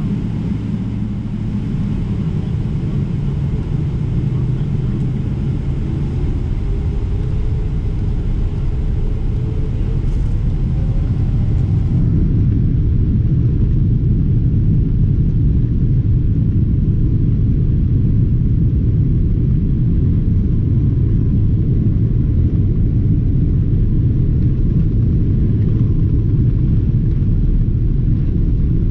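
Boeing 777-300ER's GE90-115B engines at takeoff thrust, heard from inside the economy cabin as a loud, steady rumble. A faint tone rises in pitch over the first dozen seconds as the jet accelerates.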